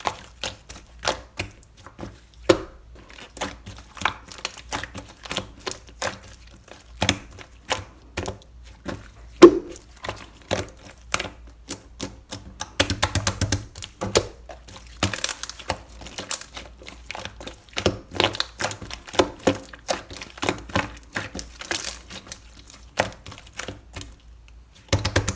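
Mint milk slime being kneaded and pressed by hand, giving an irregular run of sharp clicks, pops and squishes, a few of them louder.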